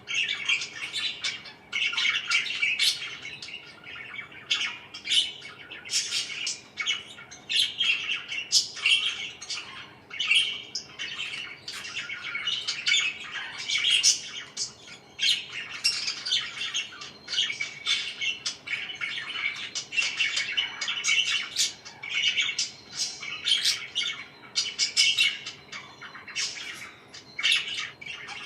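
Pet parakeets chirping and squawking continuously, a dense stream of short, high calls.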